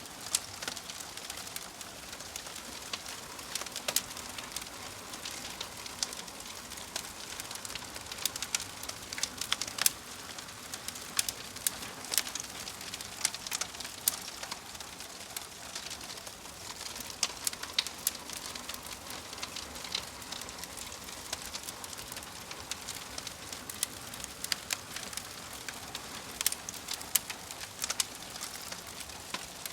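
Wood fire crackling, with many sharp, irregular pops and snaps over a steady soft hiss.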